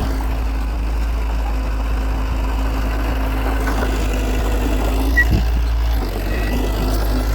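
Heavy machine's diesel engine running steadily, with a single knock about five seconds in.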